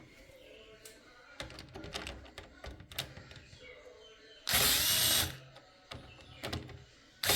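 Small electric screwdriver whirring in a burst of just under a second about four and a half seconds in, and again starting near the end, backing out the fan screws of a PC case fan. Light clicks and rattles of handling come in between.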